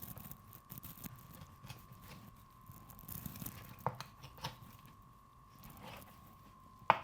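Knife cutting and pulling raw meat off chicken leg bones: faint slicing, tearing and small clicks, with a sharp knock near the end.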